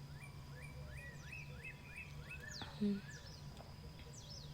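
Songbirds in a dawn chorus: a quick run of repeated chirping notes with higher, downward-sweeping whistles over it, and a steady low hum underneath. A short soft low thump comes about three seconds in.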